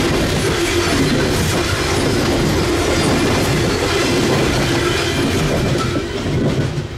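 Loaded coal hopper cars of a freight train rolling past at close range, their wheels clattering over the rail joints. The sound drops away near the end as the last car passes.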